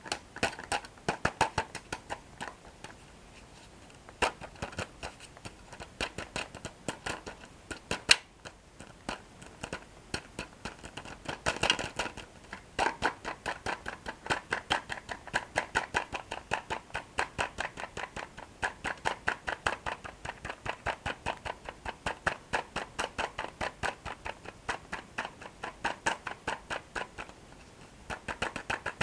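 Close-miked chewing of crunchy toasted bread sticks with cocoa cream: rapid crackling crunches, several a second, in runs. One sharp crack and, a few seconds later, a louder burst of crunching stand out.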